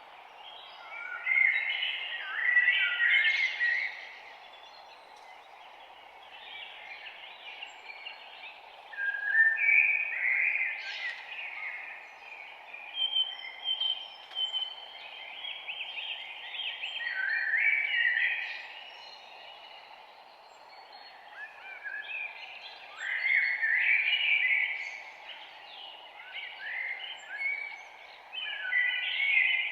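Several songbirds chirping and warbling in overlapping phrases, in bursts every few seconds, over a steady low hiss of background noise.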